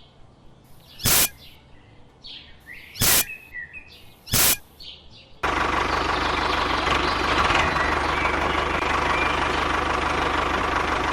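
Birds chirping, broken by three loud short bursts. About halfway through, a small motor starts abruptly and runs steadily with a faint hum.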